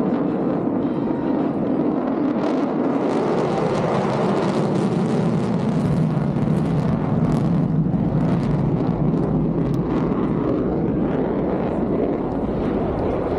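F-35A Lightning II fighter jet's Pratt & Whitney F135 engine heard in flight as a loud, steady jet rush that swells slightly in the middle.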